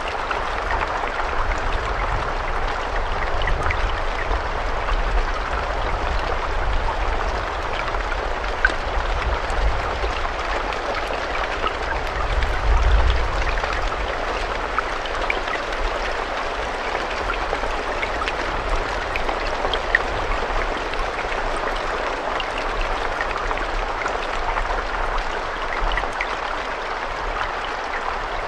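Steady rain, a continuous hiss with scattered drops ticking through it and a few sharper drips. A low rumble runs underneath and swells briefly about halfway through.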